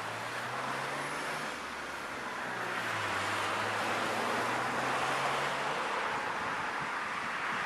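Road traffic noise from passing vehicles: a steady rush with a low engine hum that swells slightly in the middle.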